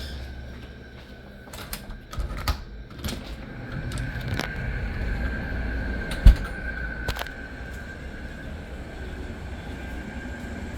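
Friedrich window air conditioner running: a low hum with a steady high whine that comes in about four seconds in. Scattered clicks and knocks and one loud thump about six seconds in sound over it.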